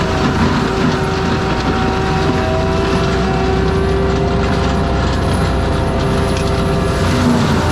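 Forestry mulcher on an ASV RT-120F compact track loader running steadily under load, a diesel rumble with a few held whining tones.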